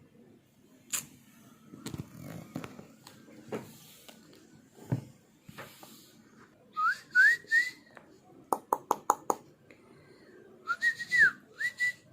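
Short rising whistled chirps: three in a quick group, then about four more a few seconds later. Between the two groups is a fast run of about six sharp clicks, and a few soft knocks and rustles come before them.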